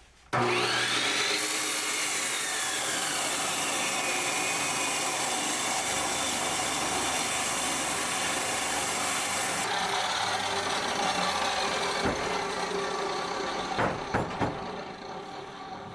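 Power saw cutting wood: a loud, steady cut that starts suddenly, then tails off after about twelve seconds, with a few knocks near the end.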